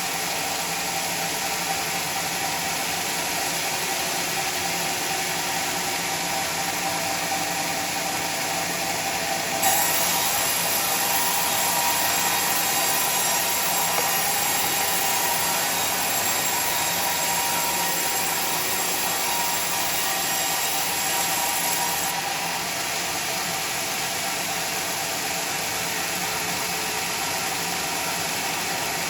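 Sawmill machinery running steadily. About ten seconds in, it gets louder and much hissier for about twelve seconds, then drops back, as the saw cuts through teak.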